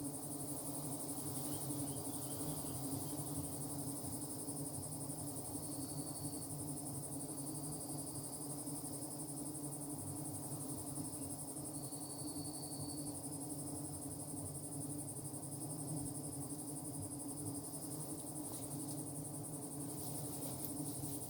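A steady high-pitched insect chorus, with short higher notes coming and going and a low steady hum underneath. A few faint clicks come near the end.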